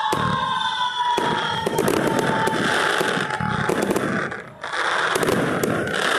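Fireworks going off: whistling tones fade out over the first couple of seconds, then dense crackling with sharp bangs. The crackling breaks off briefly about four and a half seconds in, then resumes.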